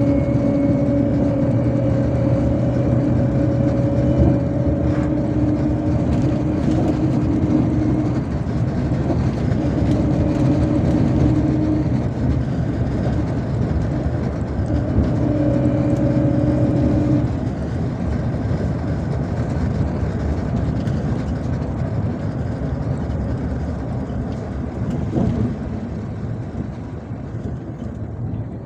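Inside a MAZ-257 bus under way: engine and road drone with a steady humming whine. The whine breaks off briefly twice, then stops about two-thirds of the way in, and the drone gradually dies down as the bus slows.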